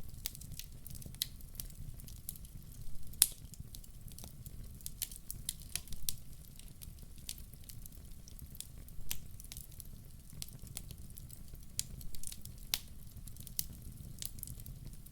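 Wood fire crackling in a fireplace: irregular sharp pops and snaps over a low steady rumble, with one louder pop about three seconds in.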